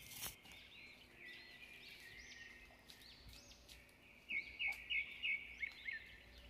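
Wild birds chirping in short, arching calls over a steady high-pitched drone. About four seconds in, one bird gives a quick run of loud repeated notes lasting about a second.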